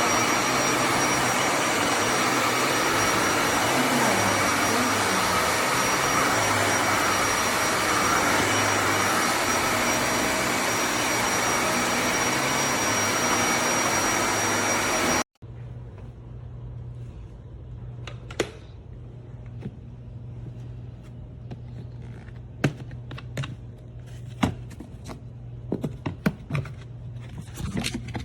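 Vacuum cleaner motor running steadily, an even rush with a thin high whine over it, cutting off abruptly about halfway through. After that comes a quieter low hum with scattered sharp clicks and knocks, more of them near the end.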